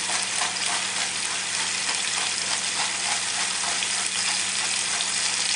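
Chicken pieces browning in hot olive oil in a pot: a steady frying sizzle.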